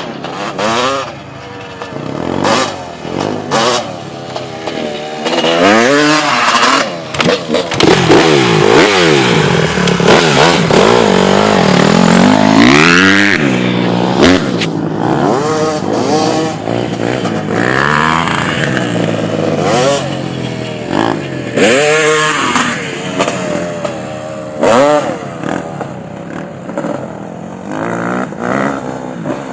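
Dirt bike engine revving hard through the gears, its pitch climbing and dropping again and again as the rider opens and closes the throttle. Sharp clattering knocks come in between.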